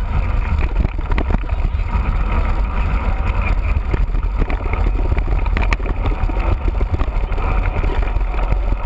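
Steady loud rumble of wind buffeting the microphone of a camera riding along on a mountain bike, mixed with rattling trail noise.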